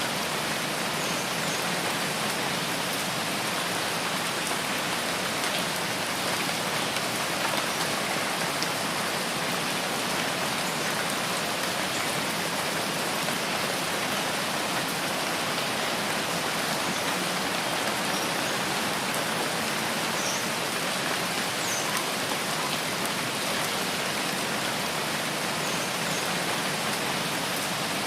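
Steady rainfall in a rain forest: an even, unbroken hiss of rain.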